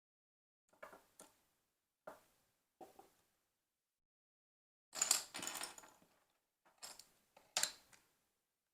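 Plastic LEGO pieces being handled: a series of short clicks and clatters, with a longer, louder rattle of pieces about halfway through.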